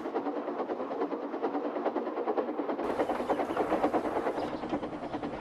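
Battery-powered toy train engine running along a toy railway track, its motor and gears whirring with a rapid, even clicking rattle.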